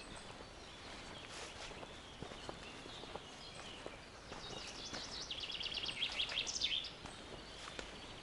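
A songbird singing a fast trill of repeated high notes for about two seconds, starting about halfway through and ending in a flourish, over faint footsteps on a forest path.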